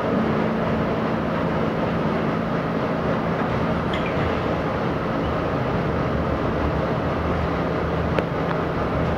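R68 subway train running along the track: a steady rumble of wheels on rail with a low motor hum that steps down in pitch about three seconds in. A single sharp click comes near the end.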